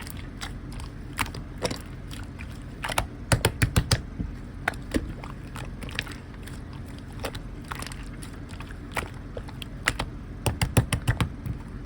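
Clear slime being pressed and squished by hand, giving off irregular sharp clicks and pops, with quick clusters of pops about three seconds in and again near the end.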